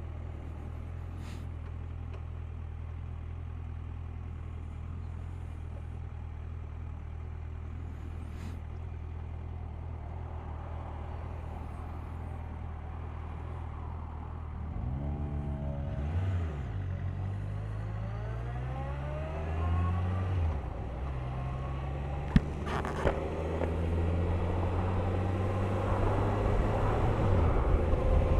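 Suzuki GSX1250FA's inline-four engine idling steadily, then about halfway through pulling away. Its revs rise and drop several times through the gear changes, and it gets louder as it gathers speed.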